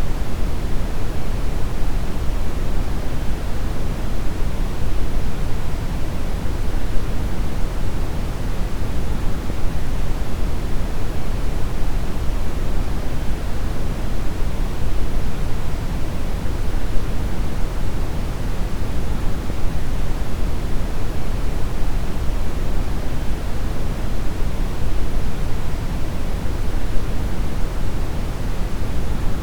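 Deep brown noise: a steady, even rumbling hiss, its energy heaviest in the lows and falling away toward the highs, with no change or events.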